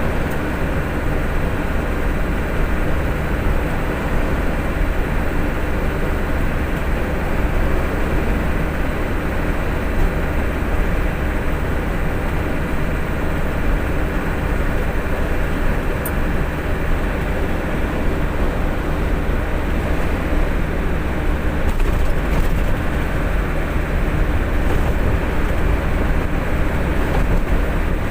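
Truck engine running steadily, a loud, constant low rumble.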